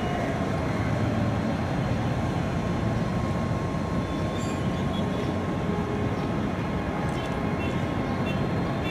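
Train at a station making a steady rumble, with a thin steady whine above it.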